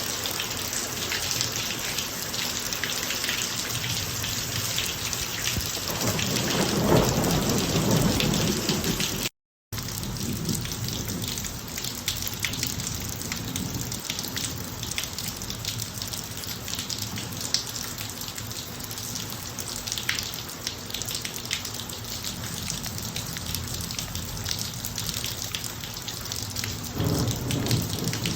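Steady rain falling on a driveway, with many small drop ticks, as thunder rumbles low and swells about six seconds in, then again near the end. The sound cuts out completely for a moment about nine seconds in.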